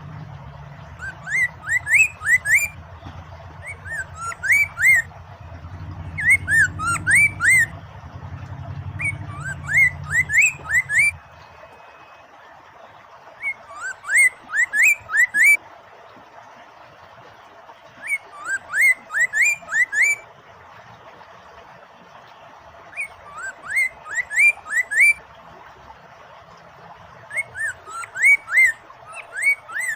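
Poksay Mandarin laughingthrush singing in quick runs of rising and falling whistled notes, a phrase every couple of seconds, over a steady background of running water. A low hum underneath stops about a third of the way in.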